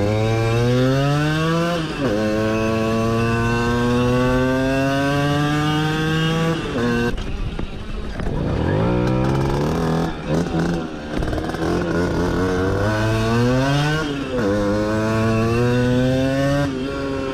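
60 cc two-stroke moped engine pulling under load, its pitch climbing steadily and dropping sharply at gear changes about two seconds in and again near the end. Around the middle the throttle closes and the revs fall away before it accelerates again.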